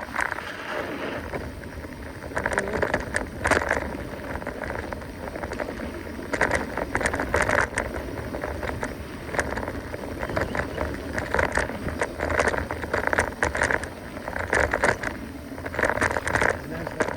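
Mountain bike riding along a dirt trail: a constant low rumble of tyres and bike, with rattling, irregular swells of noise and many short clicks as it rolls over the ground.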